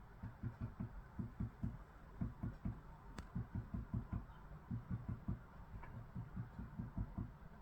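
Great spotted woodpecker pecking at a lump of pork fat: a run of dull, low knocks about four or five a second, in short bouts with brief pauses, and one sharper click about three seconds in.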